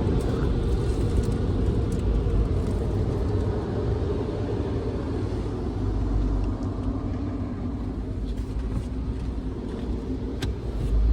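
Car running with a steady low rumble, with one sharp click about ten and a half seconds in.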